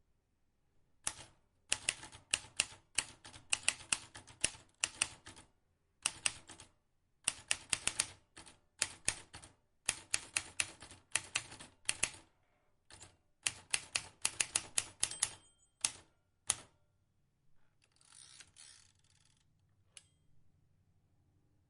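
Vintage manual typewriter being typed on: runs of sharp key strikes, several a second, broken by short pauses. Near the end the strikes stop and give way to a couple of seconds of rougher continuous mechanical noise, then a single click.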